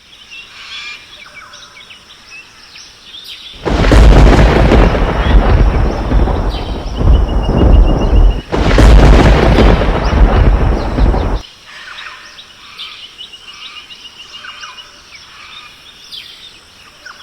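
A loud thunder rumble lasting about eight seconds, with a brief break midway, over a jungle soundscape of chirping bird calls.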